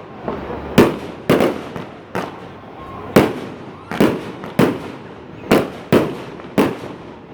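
Fireworks bursting: a quick run of about ten sharp bangs, irregularly spaced, each trailing off in echo.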